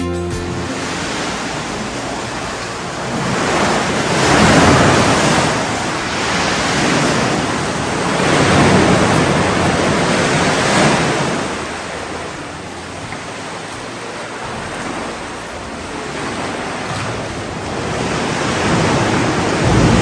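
Sea waves breaking and washing in, the surf swelling and ebbing every few seconds.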